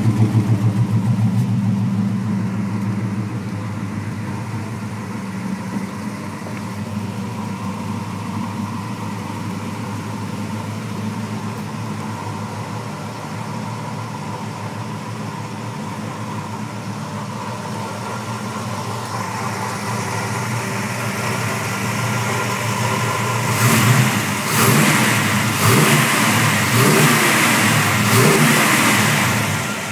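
1960 Plymouth Fury's Golden Commando 361 V8, rebuilt with a Mopar performance camshaft and 11:1 compression, idling steadily after settling from a faster idle. About three-quarters of the way through it is revved in several quick blips, then drops back to idle near the end.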